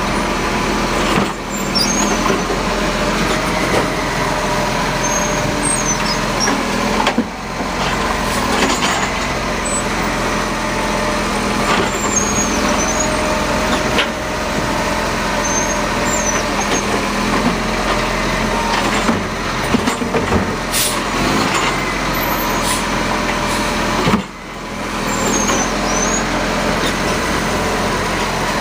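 Garbage truck's diesel engine running steadily at close range, with a few short sharp hisses typical of air brakes.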